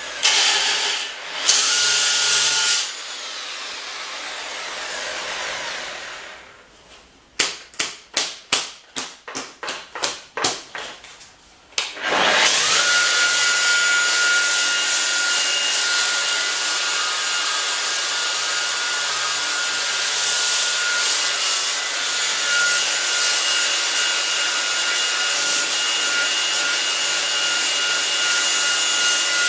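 Power sander with a sanding disc grinding paint and rust off steel mower parts: a loud hiss over a steady whine. About six seconds in it stops, a run of about nine sharp knocks follows at about two a second, then the tool spins up again about twelve seconds in and sands steadily.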